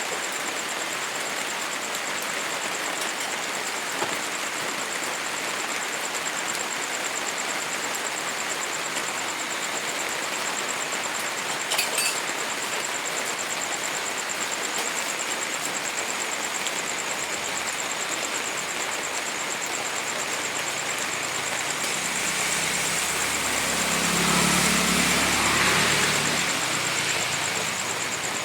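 Steady rain falling, an even hiss with a thin high whine running over it. A road vehicle passes about three-quarters of the way through, swelling up and fading away.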